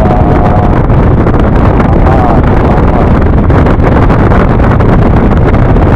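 Steady wind buffeting on the microphone with road and engine noise from a Yamaha NMAX scooter riding at speed.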